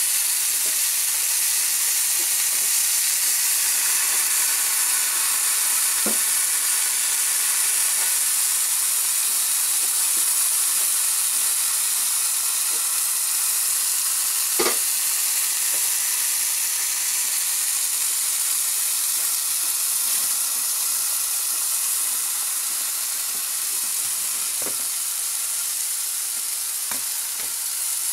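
Chicken breast and aubergine slices sizzling on a hot ceramic grill pan: a steady high hiss with a few scattered pops, one sharper pop about halfway through.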